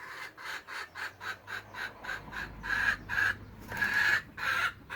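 Month-old Silkie chicks squabbling over food, calling in a quick run of short cheeps that give way to longer, louder squawks.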